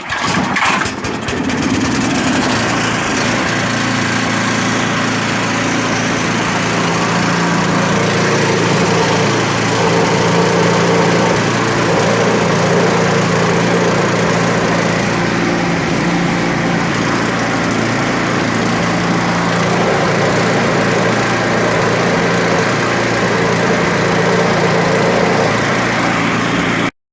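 Snow blower's small engine started by hand and running steadily at a constant speed, then cutting off suddenly near the end.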